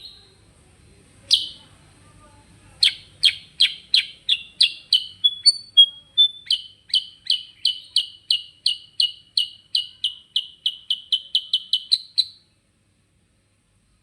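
Kutilang sutra bulbul singing in a long rolling run ('ngerol'): after one loud call, a string of short repeated chirps with a few whistled notes in the middle, speeding up toward the end and then stopping.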